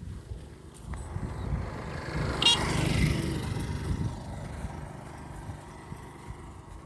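A motor vehicle passing by, its low rumble growing louder to a peak about halfway through and then slowly fading.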